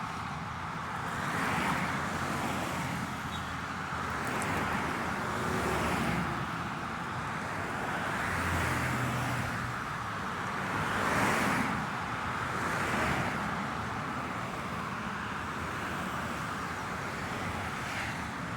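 Steady road traffic: cars passing one after another, their tyre noise swelling and fading every couple of seconds over a constant low rumble.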